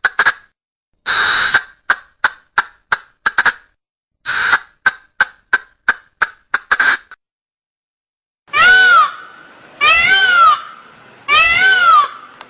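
Recorded bird calls: a run of short sharp notes, about three a second with a couple of longer notes among them. After a short pause come three loud, harsh, drawn-out calls about a second apart, each rising and then falling in pitch.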